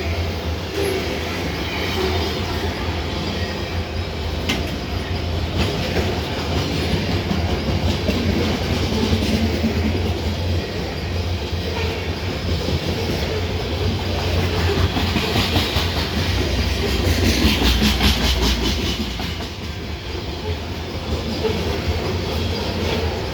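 Canadian Pacific train rolling past with a steady low rumble, wheels clicking over rail joints; the clicks come thickest about two-thirds of the way through.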